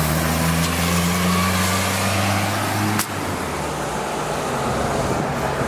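A motor vehicle engine running with a steady low hum, which cuts off abruptly with a click about three seconds in, leaving a steady outdoor rushing noise.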